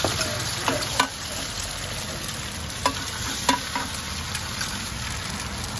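Eggs and diced tofu sizzling in hot oil on a large flat wok, a steady frying hiss. A few sharp clicks cut through it, the loudest about a second in and at about three and a half seconds.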